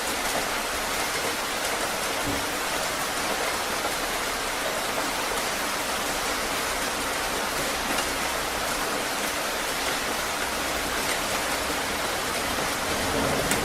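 Heavy rain falling steadily: a dense, even hiss of drops. Near the end, a low rumble of thunder starts to build.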